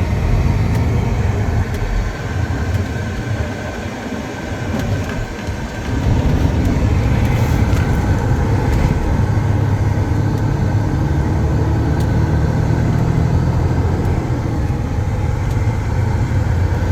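Truck engine running with road noise while driving. It eases off for a few seconds, then picks up about six seconds in and runs steady and louder.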